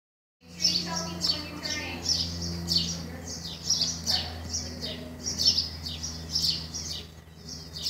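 Small birds chirping over and over, quick high chirps that each fall in pitch, about two a second, over a steady low hum.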